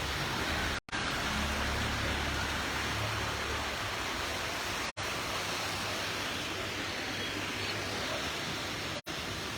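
A steady rushing noise, the wet-weather din of rain, water and traffic, cut off completely three times for a split second.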